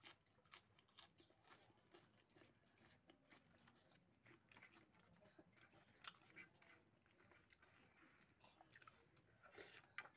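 Faint chewing of a mouthful of pork curry and rice, with irregular soft clicks and smacks from the mouth.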